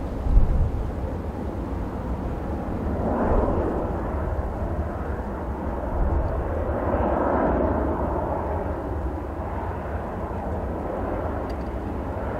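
Jet airliner engines running across the airfield, swelling twice and easing off, over a heavy rumble of strong wind buffeting the microphone.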